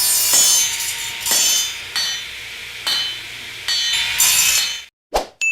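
A run of loud metallic clanks and clatter, a fresh hit about once a second, that cuts off suddenly near the end. It is followed by a short thud and the start of a single ringing ding.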